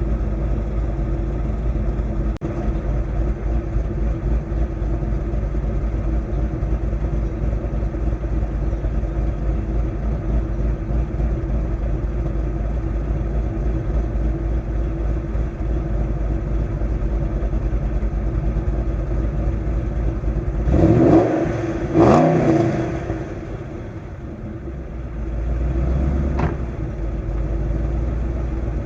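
A 2005 Mustang GT's 4.6-litre V8, fitted with Stage 1 cams, long-tube headers, a catted shorty H-pipe and stock mufflers, idling steadily through the exhaust. About two-thirds of the way in it is blipped twice in quick succession, the pitch rising and falling back each time, and a smaller rev follows a few seconds later.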